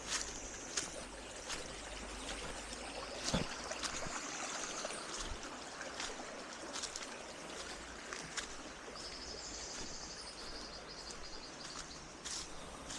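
A forest stream running steadily, with scattered short clicks and taps and a high, buzzy trill that comes and goes a few times.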